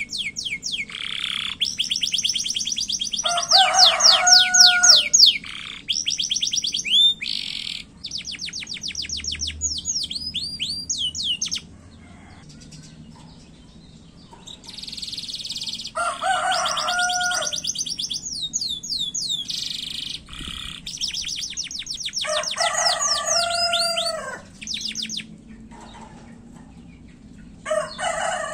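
Domestic canary singing in short, fast trills of rapid repeated high notes, broken by lower rolling phrases, with a quieter pause about halfway through.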